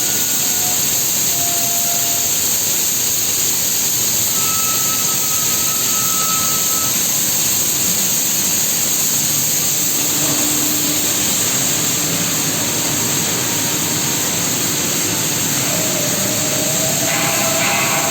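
Steady hissing noise of automatic hardfacing welding on a vertical grinding mill's plate as it turns under the welding head. A few faint short tones sound through it, and a cluster of tones comes in near the end.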